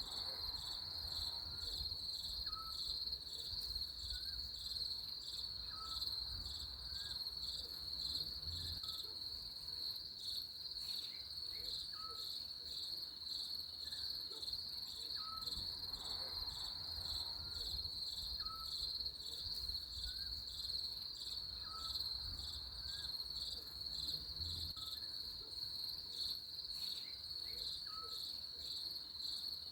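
Crickets chirring in a steady, high-pitched pulsing trill, with a faint short chirp repeating about every second and a half.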